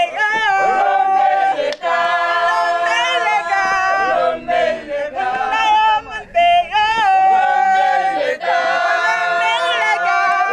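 A group of voices singing together in a chant, holding long notes and repeating short phrases, with brief breaks between them.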